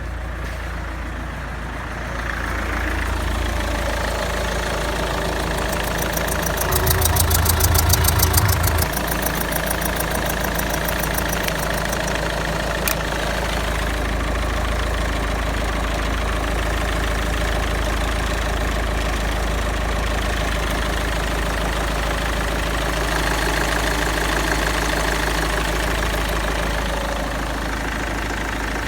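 Mazda 6 GY's 2.0 MZR-CD four-cylinder turbodiesel engine running steadily at idle. It grows briefly louder and deeper for about two seconds, some seven seconds in.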